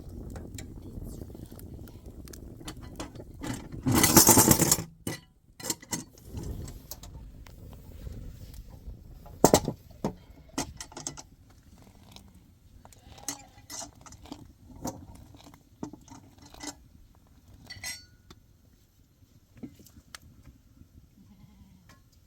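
A low steady rumble, then a loud burst of noise about four seconds in and a sharp knock near ten seconds, followed by scattered light clinks and knocks of handled objects.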